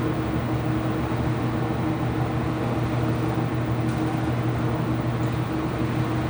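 IPSO washing machine running mid-cycle: a steady mechanical hum with two low steady tones and no rhythm.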